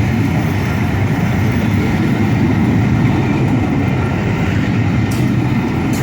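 Steam-hauled passenger train behind the Peppercorn A1 locomotive Tornado running past: a loud, steady rumble of the train in motion, with a couple of sharp ticks near the end.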